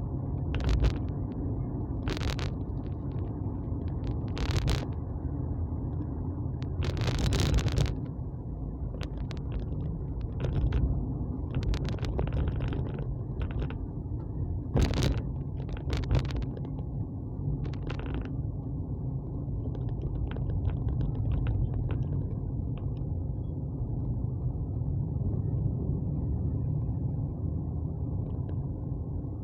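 Steady low rumble of a vehicle on the move, with sharp knocks and clatters every few seconds.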